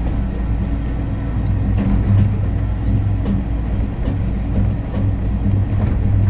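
Skyrail suspended people-mover car running along its track: a steady low hum with a few faint clicks.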